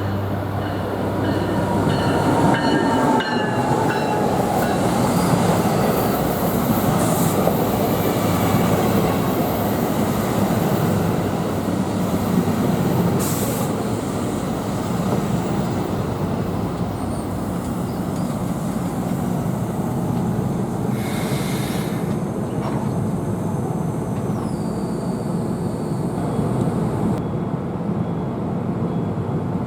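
An NJ Transit commuter train rumbling along the rails, with whining tones in the first few seconds that fall in pitch.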